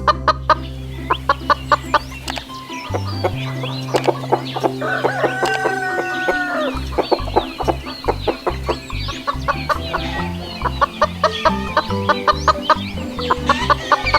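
Chickens clucking and a rooster crowing over background music with a steady beat.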